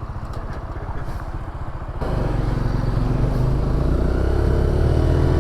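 Motorcycle engine running at a low, pulsing beat, then suddenly louder about two seconds in. From there its pitch climbs steadily as it accelerates.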